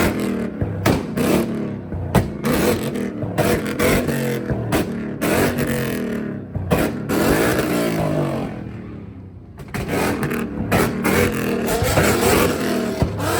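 Car engine revving up and down repeatedly, with sharp exhaust pops and cracks between the revs. The revs die away briefly past the middle, then pick up again.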